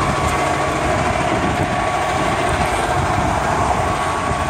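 Heavy truck's diesel engine idling steadily with a constant hum and hiss.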